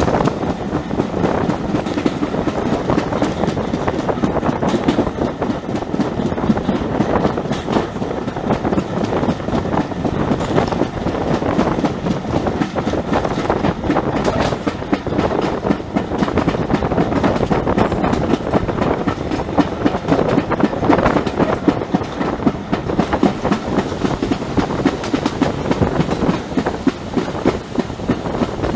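Passenger train coaches running at speed, heard from an open carriage window: a steady rumble and rush with the wheels clattering over the rail joints.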